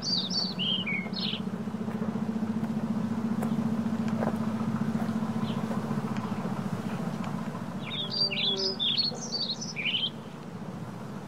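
Birds chirping in two short bursts of quick, sweeping notes, one at the start and another about eight seconds in, over a steady low hum.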